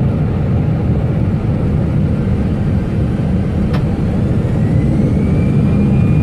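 Steady low roar of an airliner's engines and airflow heard inside the cockpit, with a single sharp click a little past halfway and a faint whine rising in pitch near the end.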